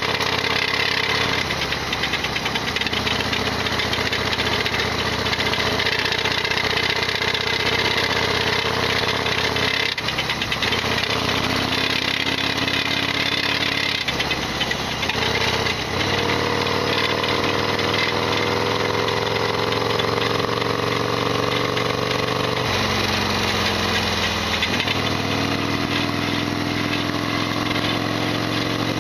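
Harley-Davidson XL1200R Sportster's air-cooled V-twin running under way. Its pitch climbs steadily as it pulls and drops sharply about 23 seconds in, as at a gear change. The engine rattles loudly throughout, a large abnormal mechanical noise that the owner notes on this bike.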